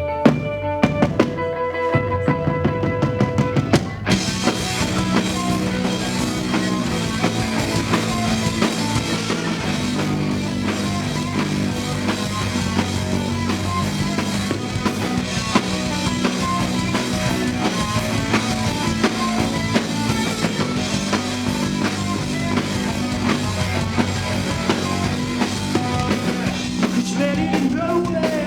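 Live rock band playing: a few sustained guitar notes ring out, then the drum kit and full band come in about four seconds in and play on steadily.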